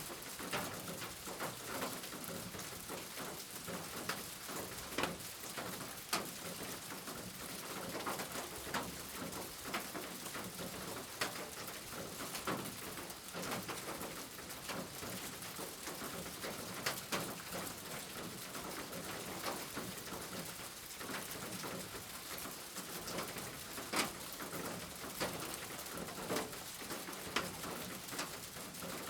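Steady rain with many individual drops clicking sharply on a hard surface, and a bird cooing low in the background.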